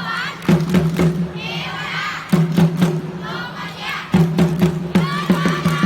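A drum beaten in quick groups of strokes, a burst of beats about every two seconds, while a crowd of students shouts and chants cheers over it.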